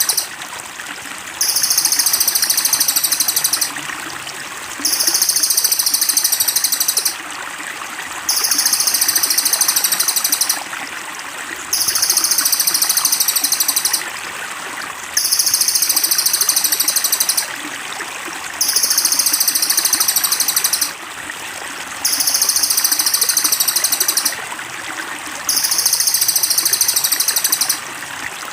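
Songbird master recording: a very high, rapid chattering trill in bursts of about two and a half seconds, repeated about every three and a half seconds in an even loop, over a steady trickle of running water.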